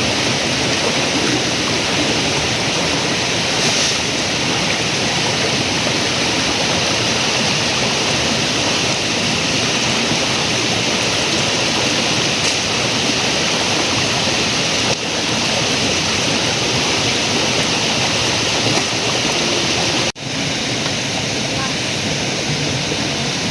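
Steady rush of flowing river water, dropping out for an instant about twenty seconds in.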